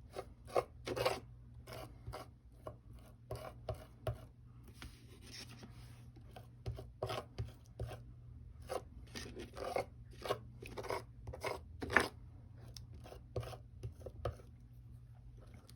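A knife blade scraping texture paste across a stencil on card, in short, irregular strokes a few per second, with brief pauses between them.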